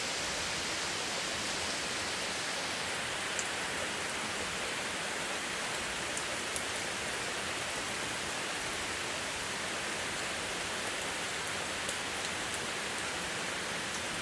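Steady spring rain falling, an even hiss, with a few sharper drop clicks a few seconds apart.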